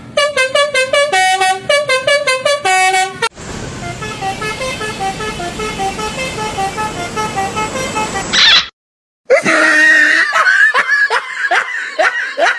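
Telolet multi-tone bus horns playing quick musical phrases. The horn tunes come in three runs with abrupt cuts between them: rapid stepped notes at first, then a quieter string of steady notes, and after a brief gap a series of rising swoops.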